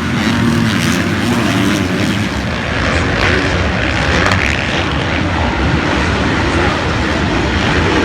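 Motocross bikes racing, their engines revving continuously with the pitch wavering up and down.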